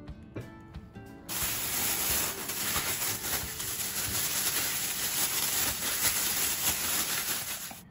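Plastic bag holding chicken pieces and potato starch being shaken hard, a loud steady crinkling rustle. It starts about a second in and stops abruptly just before the end, with background music faintly under it.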